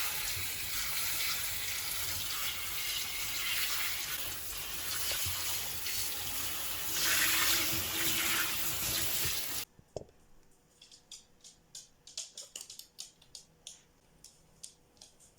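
Water running from a tap in a steady stream, cut off abruptly about ten seconds in; then a scatter of faint light clicks and taps.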